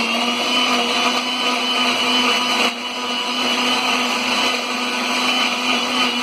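Electric mixer-grinder blending chunks of jackfruit with milk, nuts and honey into a milkshake. The motor runs at a steady whine, with a brief dip a little before halfway.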